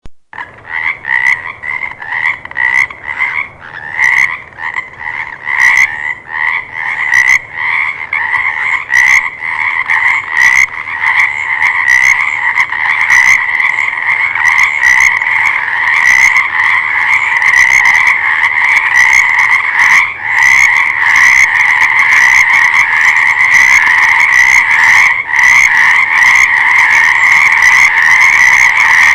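A chorus of frogs croaking in rapid pulsed calls. The calls start out as separate bursts, then more frogs join until about a third of the way in they overlap into an almost unbroken chorus.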